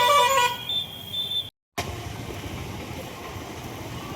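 A vehicle horn honks briefly, loud and pitched with several overtones, a thin high tone lingering after it. The sound cuts out abruptly for a split second about one and a half seconds in, then a steady low rumbling noise follows.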